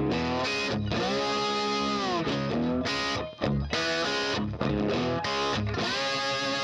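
Background music: distorted electric guitar playing chords and bent notes in short phrases.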